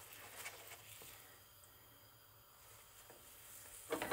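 Flatbread frying in a very hot oiled pan, a faint sizzle, with a few sharp knocks near the end as the pan is handled and the bread flipped.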